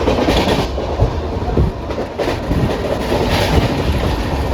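Passenger train running along the track: a loud, steady rumble with irregular knocks from the wheels and coaches.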